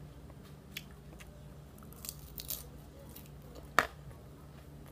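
Close-up chewing of a mixed-greens salad, with a few soft crunches and clicks scattered through and one sharp click just before the end, over a steady low hum.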